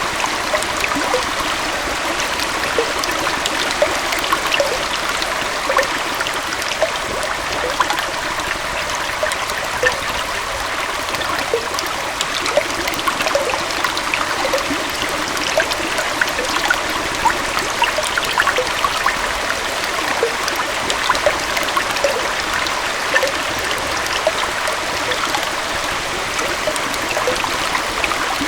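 Gentle waterfall and stream flowing steadily: a continuous rush of water with many small bubbling, trickling splashes.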